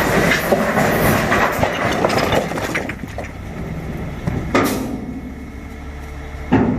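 Rocks clattering and rattling against one another and against metal, with a low engine hum underneath; the clatter dies down about three seconds in, and two single knocks follow near the end.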